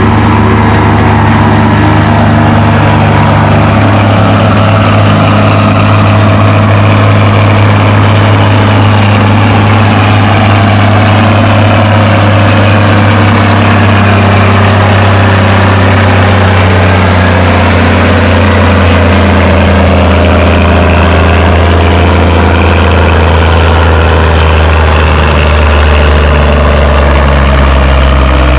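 Massey 97 tractor engine running hard under load while pulling a weight-transfer sled, a loud, steady drone with little change in pitch.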